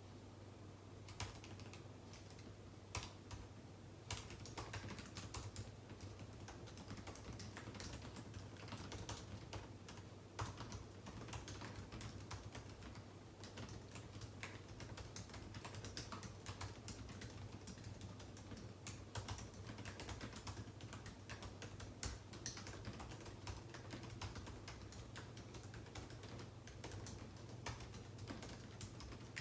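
Typing on a computer keyboard: a few separate keystrokes, then quick, continuous typing from about four seconds in, over a low steady hum.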